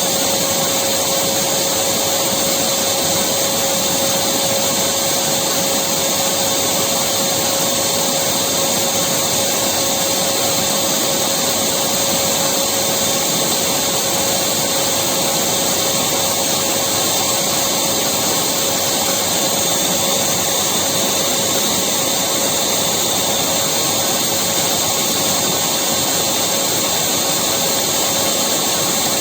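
Electric vacuum cleaner running steadily, a constant loud whooshing rush of air with a steady motor whine.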